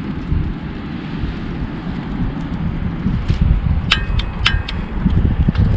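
Wind buffeting the microphone, a steady low rumble. About four seconds in come two light metallic clinks half a second apart, each with a short ring, as metal parts are handled.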